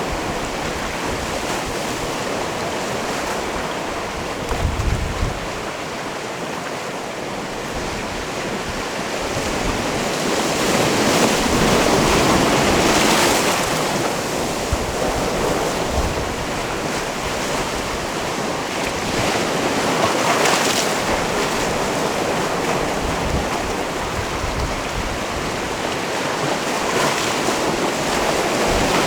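Sea waves washing onto a rocky cove shore, a steady surf with several waves swelling louder and falling back. Brief gusts of wind buffet the microphone about five seconds in.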